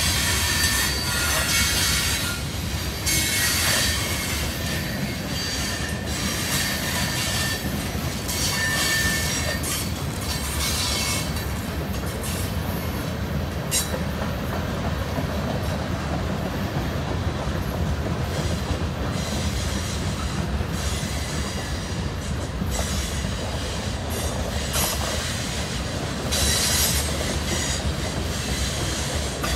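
Freight cars of a CSX train rolling past: a steady rumble of steel wheels on rail, with high wheel squeal flaring up near the start, again about a third of the way in, and near the end.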